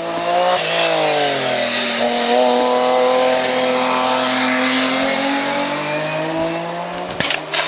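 Hillclimb race car's engine passing under hard acceleration: the pitch dips about a second in, then climbs and holds high for several seconds before easing off. A few sharp cracks come near the end.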